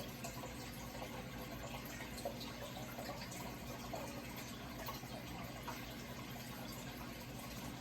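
Running water trickling steadily, with small bubbling blips, over a low steady hum.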